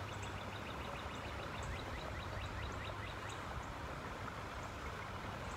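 Outdoor ambience: a steady low rumble with a bird's short, high chirps repeating about four or five times a second.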